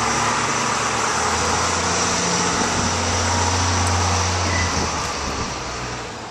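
Stearman biplane's radial engine running loudly, its low note shifting in pitch partway through, then fading away near the end.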